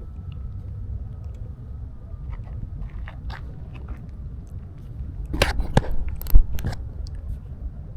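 Crunching clicks and knocks over a steady low rumble, with a cluster of sharper, louder clicks about five and a half to seven seconds in. The loudest click comes about six and a half seconds in.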